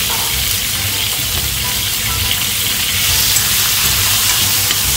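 Chopped green bell peppers sizzling steadily in smoking-hot oil and rendered chicken fat in a pan, stirred with a spoon near the end.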